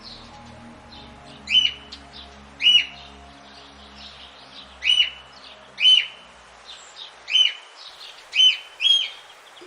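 A bird repeating a short, sharp, loud call, about seven times at roughly one-second intervals, over a faint background of soft music that fades away before the end.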